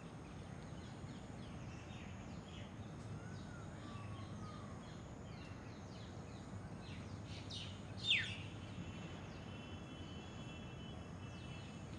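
Small birds chirping outdoors: many short, high chirps throughout, with one loud, sharp call sweeping down in pitch about eight seconds in, over a steady low background rumble.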